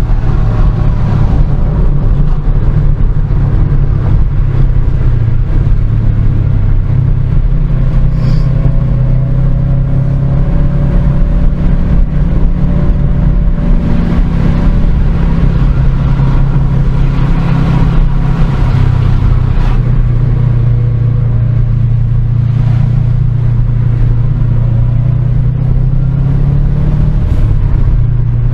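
Car engine running steadily under way with road noise, its low hum holding one pitch and stepping to a new one a few times, around 7 and 19 seconds in.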